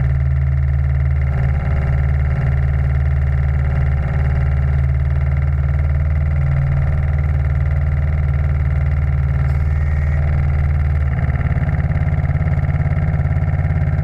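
Steam launch machinery running steadily with a loud low hum. About eleven seconds in, the sound shifts into a fast, even pulsing.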